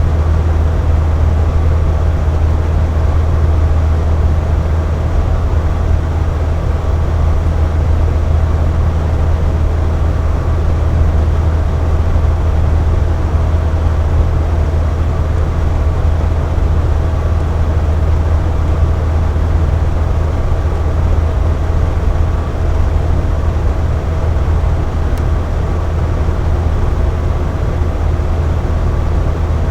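Box fan running steadily: a constant whooshing air noise with a deep hum and faint steady tones, unchanging throughout.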